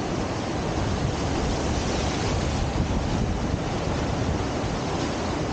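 Steady rush of whitewater pouring through a river's standing surf wave, the Deschutes River wave in Bend.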